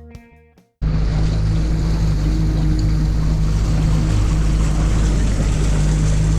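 Guitar music fades out, then about a second in a sudden cut brings in an outboard motor on a small aluminium boat running steadily, with wind noise on the microphone over it.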